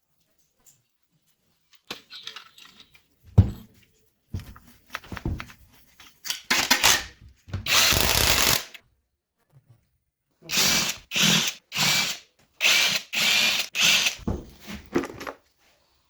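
Power tool run in repeated short bursts, each about half a second to a second long with short pauses, as fasteners are driven during engine assembly; a sharp metallic knock comes shortly before the bursts begin.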